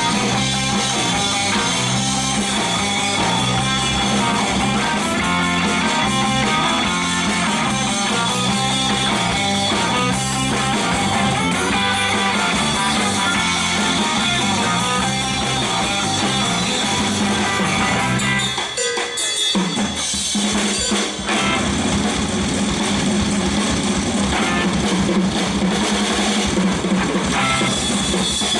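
Live band playing an instrumental passage with no singing; the low end drops out for about a second a little past halfway, then the full band comes back in.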